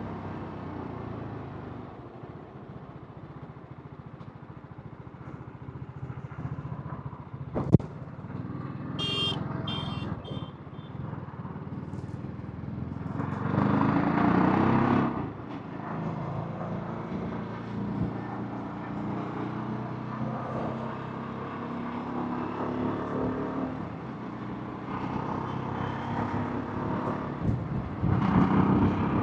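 TVS Apache RR310's single-cylinder engine and exhaust heard from the rider's helmet while riding. The engine runs on varying throttle, louder when opened up at around thirteen to fifteen seconds and again near the end. A sharp click comes about eight seconds in, followed by a brief high-pitched beeping.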